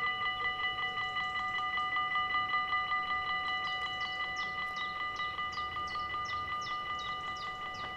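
Dutch level-crossing warning bell ringing in rapid, even strikes, about five a second, signalling that the barriers are coming down for an approaching train. From about three and a half seconds in, short high falling chirps repeat alongside it, about twice a second.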